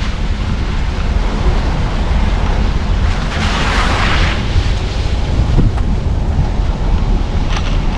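Car driving: a steady low rumble of road and engine noise with wind on the microphone, and a louder rush of hiss for about a second, some three and a half seconds in.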